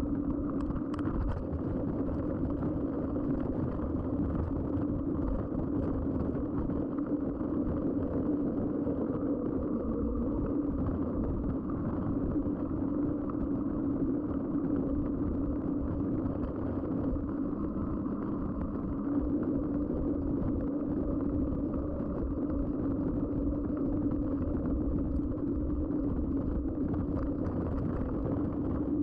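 Mountain bike riding along, its Schwalbe tyres humming steadily on the road under a low rush of wind and rolling noise, with a brief rattle about a second in.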